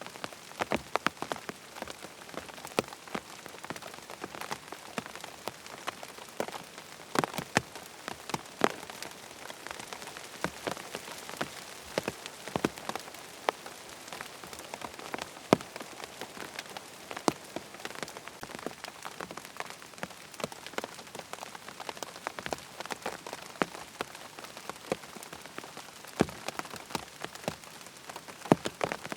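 Rain falling steadily on a tent, an even hiss with many separate sharp drop strikes tapping on the fabric.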